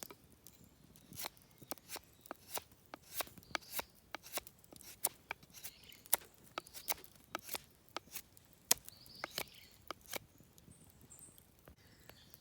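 Knife shaving cherry wood while carving a wooden spatula: a run of short, sharp cutting strokes, a couple a second, that stop near the end.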